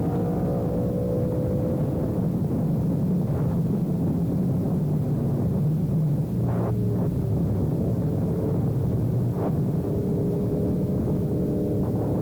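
Sport motorcycle engine running steadily under way, a low rumble with a held pitch and a few brief sharp spikes.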